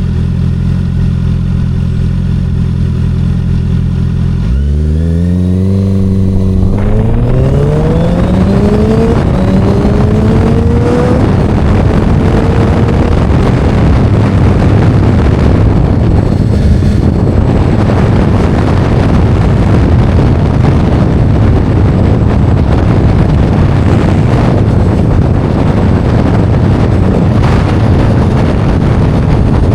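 A motor vehicle's engine runs steadily, then about four seconds in revs up in several rising sweeps as it accelerates. Heavy wind noise on the microphone builds up and drowns the engine out for the rest of the time.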